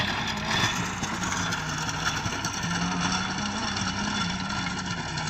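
Tractor engine running steadily while driving a rotavator through the soil. Its pitch wavers slightly up and down over a continuous rushing noise.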